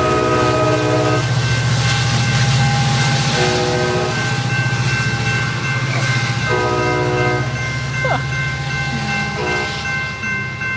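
Amtrak California passenger train pulling away past a grade crossing: a steady diesel locomotive drone with the air horn sounding in four blasts a few seconds apart, the last one short. The sound fades as the train recedes.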